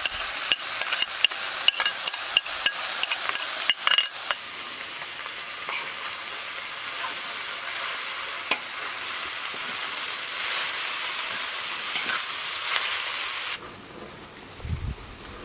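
Shredded chicken and peas sizzling in a wide, shallow metal pan while a metal spoon stirs them, with frequent sharp clicks of the spoon against the pan in the first few seconds. The frying sound cuts off suddenly near the end, leaving quieter outdoor background.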